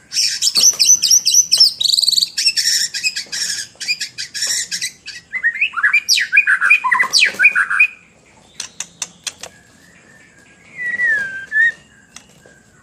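White-rumped shama singing in full song: a fast, loud run of trills, whistles and harsh chattering notes for about eight seconds, then a few sharp clicks and one slurred whistle near the end.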